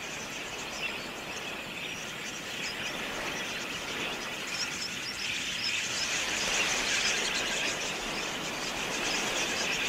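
Many birds chirping continuously over a light, even hiss in open grassland.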